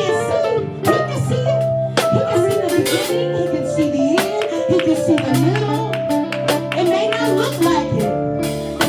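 Live gospel worship music: held keyboard-like chords under a melodic line that slides up and down, with regular drum hits.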